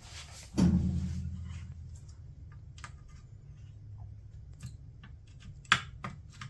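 A low knock about half a second in, then scattered light plastic clicks and taps as a range control board and its plastic housing are handled, with one sharper click near the end.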